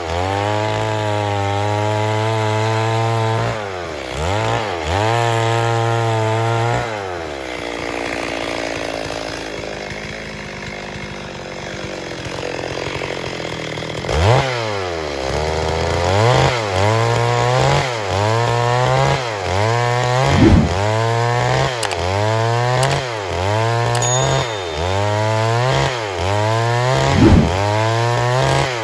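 Stihl MS 382 two-stroke chainsaw revved up and held at high revs for a few seconds, twice, then dropping back to idle. Near the middle it blips its throttle up and down about once a second.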